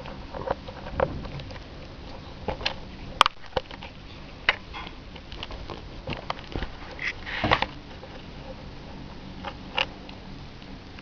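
Irregular taps, knocks and scratchy handling noise as a cat paws and bats at the camera, with a sharp knock about three seconds in and a cluster of louder taps around seven seconds in.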